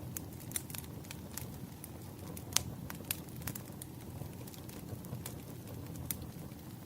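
Firewood burning: a steady low rumble of flames with irregular sharp crackles and pops, the loudest about two and a half seconds in.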